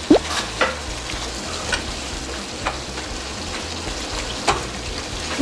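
Food sizzling in a frying pan as it is stirred, with a spoon knocking against the pan a few times.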